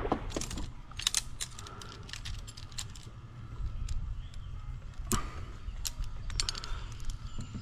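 Small folding camp table being unfolded and set up: a run of irregular sharp clicks and light rattles from its joints and legs.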